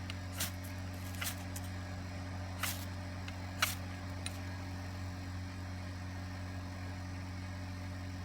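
Ferro rod struck four times in about four seconds, short sharp scrapes with a few fainter ones between, sending sparks onto damp newspaper tinder that does not catch. A steady low hum lies under them throughout.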